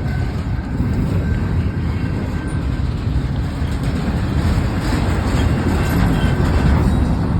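Long freight train rolling past: a steady low rumble of cars on the rails, growing slightly louder toward the end.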